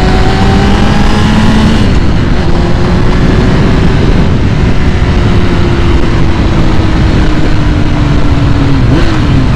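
2001 Kawasaki ZX6R's carbureted inline-four engine running at a fast idle while warming up from a cold start. Its pitch sinks slowly, with a slight drop about two seconds in and a quick small blip near the end.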